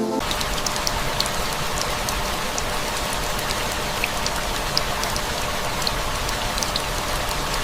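Steady rain falling, an even hiss dotted with single drops ticking.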